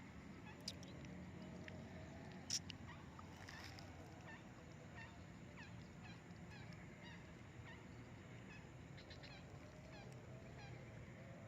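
Faint bird calls throughout, with two short clicks about one second and two and a half seconds in.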